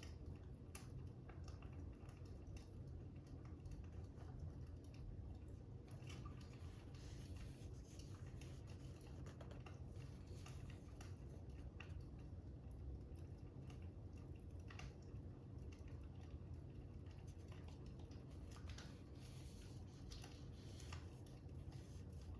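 Faint fire crackling: scattered, irregular small pops and clicks over a low, steady rumble.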